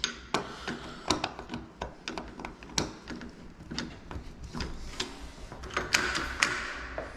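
Sharp metal clicks and clacks of a SmartKey door lock being worked by hand, several irregular clicks a second, as the rekeyed lock is tried out. A brief rustling scrape comes about six seconds in.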